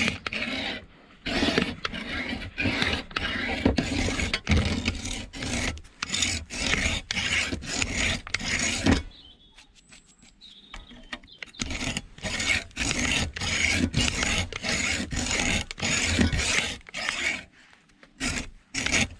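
Hacksaw sawing with quick back-and-forth strokes, about two to three a second, cutting open an encased scrap part to get at the copper inside. The strokes stop for about two seconds midway, then resume until near the end.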